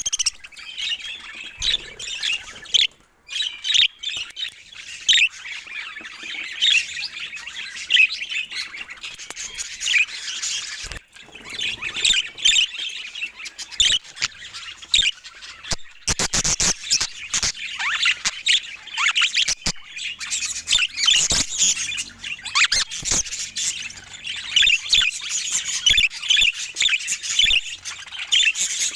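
Budgies chattering without pause in rapid high chirps, warbles and squawks, with a run of sharp clicks about halfway through.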